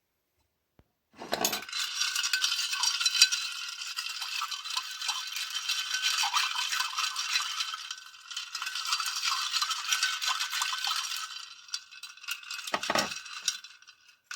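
Dense, crackling rattle of many fine clicks, mostly high-pitched, starting about a second in and fading out near the end, with a couple of brief low thumps at the close.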